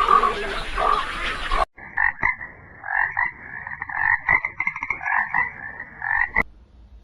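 Frogs croaking in rapid, pulsing calls for about five seconds, ending abruptly near the end. For the first second and a half, a different loud sound from the previous clip plays and then cuts off suddenly.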